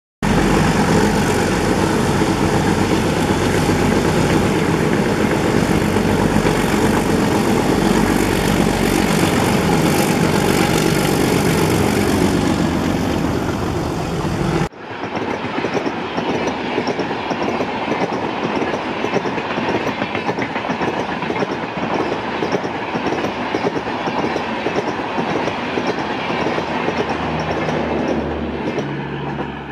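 A train passes close by, hauled by twin ALCo WDM-3D diesel locomotives: a loud, dense rumble of engines and wheels on rail. After a sudden cut about halfway through, coaches roll past with a steady clickety-clack of wheels over the rail joints. A low hum joins near the end.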